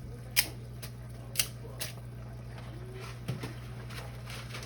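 Dry thin spaghetti being snapped by hand: a few sharp cracks, three loud ones within the first two seconds and a smaller one later, over a steady low hum.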